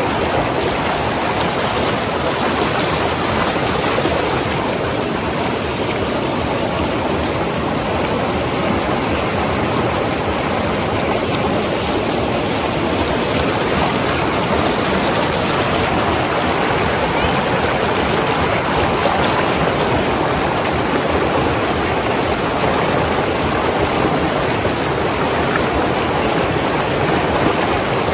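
Mountain river rushing and gurgling over rocks, a steady, unbroken water sound.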